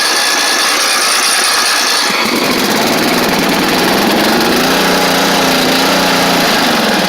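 Early-to-mid-1980s Simplicity lawn tractor engine on a cold start: the electric starter cranks with a high whine for about two seconds, then the engine catches and runs unevenly for several seconds, its pitch rising and falling.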